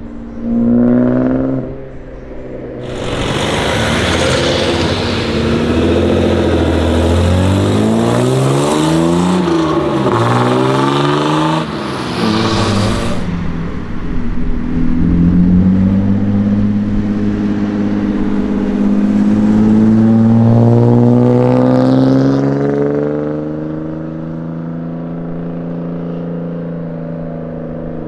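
Modified BMW E36's M50B25 straight-six engine revving and accelerating through its exhaust. There is a short rev about a second in, then a loud stretch where the pitch rises and falls several times, then a slower, steady climb in pitch that fades as the car pulls away.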